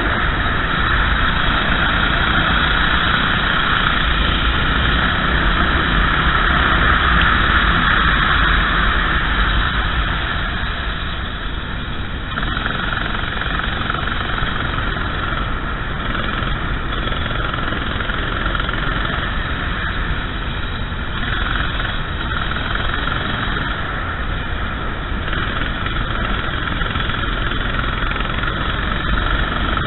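Racing kart engine running steadily under a continuous rush of noise, dipping slightly in loudness about twelve seconds in.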